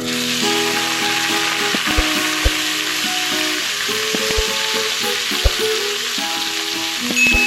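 Salted beef frying in hot oil in a pan, sizzling steadily, with a few sharp knocks of a utensil stirring it.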